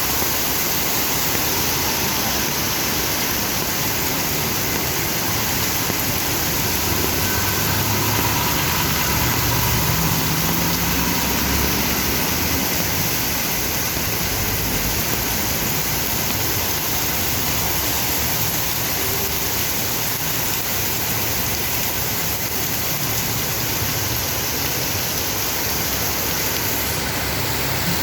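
Heavy rain pouring down as a steady hiss, with motor vehicle engines running in the traffic, their low rumble strongest about eight to twelve seconds in.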